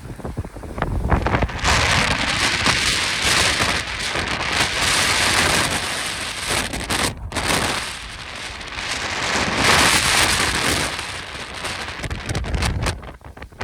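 Strong, gusty Santa Ana wind: a long rushing hiss that swells and eases, breaking off for a moment about halfway through, with low rumbling wind buffeting on the microphone at the start and again near the end.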